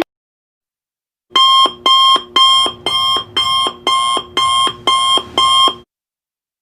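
Alarm clock sound effect: after a silent second, nine evenly spaced rings at about two a second, which stop suddenly shortly before the end.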